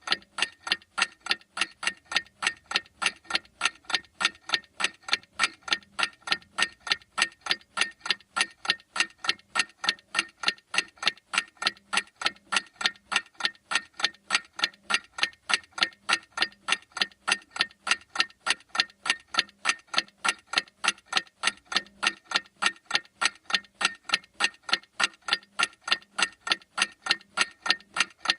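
A clock ticking steadily: sharp, evenly spaced ticks, several a second, all at the same strength.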